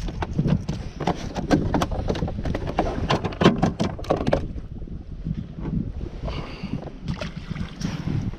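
Irregular knocks and clicks of handling on a kayak while a hooked bass is fought to the boat, dense for the first few seconds and sparser after.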